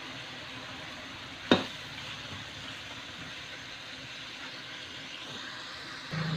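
Chicken adobo sizzling steadily in a metal wok, with one sharp clank of a cooking utensil against the pan about a second and a half in. A low hum comes in near the end.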